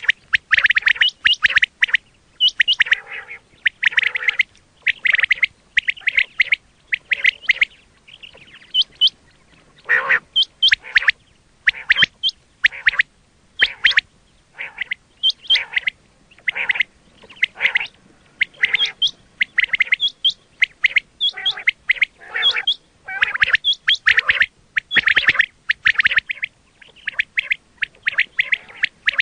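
Quail calling over and over: quick clusters of short, high notes with short gaps between them, a call used to lure quail for hunting.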